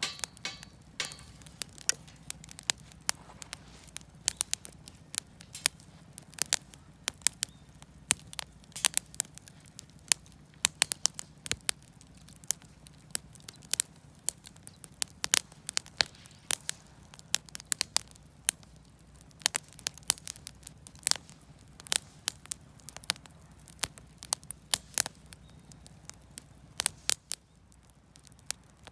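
Campfire of wood offcuts and firewood crackling, with sharp snaps and pops at irregular intervals, several a second.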